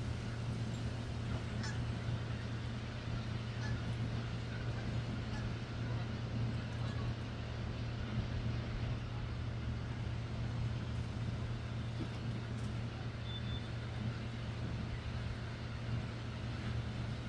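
A steady low hum over an even background noise, with a few faint, short sparrow chirps here and there.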